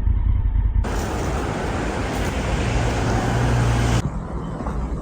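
Motorcycle riding at road speed: the engine hums low under wind rushing over the microphone. The sound changes abruptly about a second in and again near the end as the shots change.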